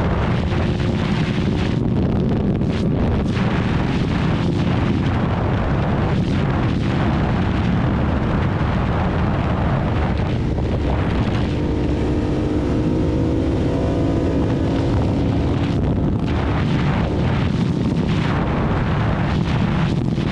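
Ducati Hypermotard's L-twin engine running at road speed, mixed with heavy wind rush on the microphone. The engine note climbs through the middle as the bike accelerates, then drops back.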